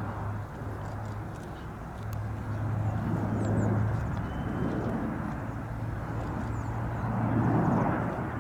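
Airbus A400M Atlas's four TP400 turboprop engines and propellers droning, a steady low hum under a rushing noise that swells twice, a few seconds in and again near the end.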